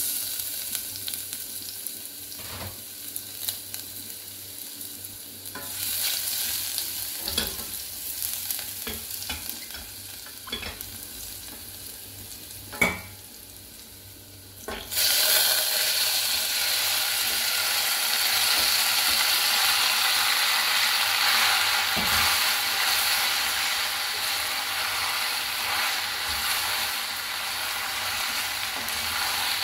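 Chopped garlic sizzling gently in oil in a stainless steel saucepan, with scattered clicks and taps. About halfway through, pasta shells are tipped into the hot pan and a much louder, steady sizzle starts suddenly as they fry and are stirred with a wooden spoon.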